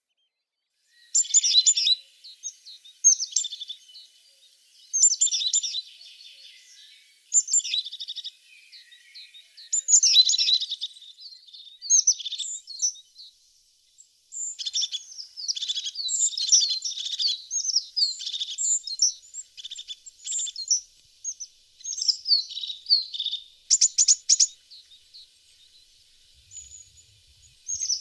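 A tit singing: short, high chirping phrases repeated about every two seconds, then a denser run of quick chirps and trills in the second half, with a brief silence about halfway.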